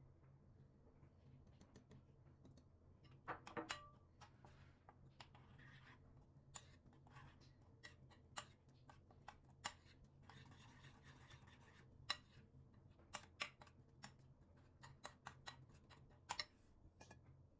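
Quiet handling sounds: scattered light clicks and taps, with a quick cluster of clicks about three and a half seconds in and a soft rustle or scrape around ten to twelve seconds, over a faint steady hum.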